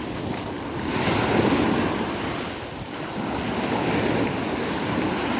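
Sea surf breaking near the shore in surges that swell and fade, loudest about a second and a half in and again near the end, with wind on the microphone.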